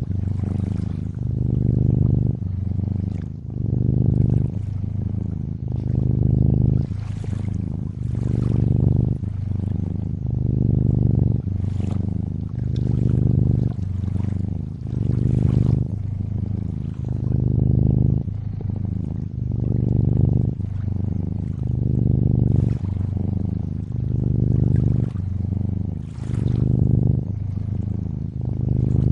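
Domestic cat purring close up, a low rumble that swells and eases with each breath about every two seconds, over faint trickling water.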